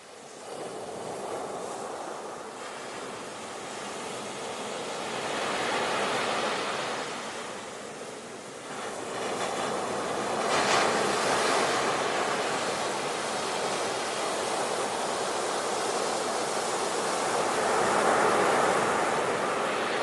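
Ocean surf: waves breaking and washing in again and again, the rush swelling and ebbing, with one sharper crash about halfway through.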